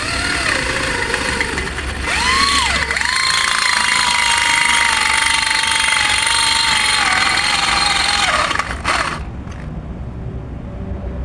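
Electric angle grinder grinding the head off a steel lower ball joint, with a hissing grind and a whine that rises as it spins up about two seconds in, sags slightly under load, and cuts off near the end.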